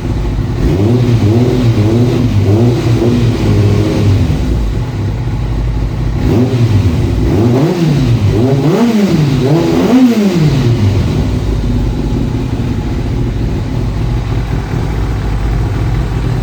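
Kawasaki ZZR1200's inline-four engine running through homemade aftermarket exhausts, idling with small throttle blips at first, then revved up and let fall four or five times about midway, before settling back to a steady idle.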